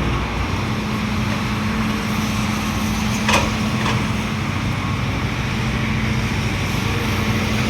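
Diesel engine of a hydraulic excavator running steadily under load while it digs clay out of a pit. There is a sharp metallic clank a little over three seconds in and a lighter one about half a second later.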